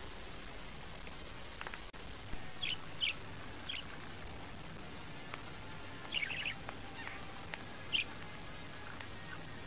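Scattered short, high bird chirps, about six in all, over a steady background hiss.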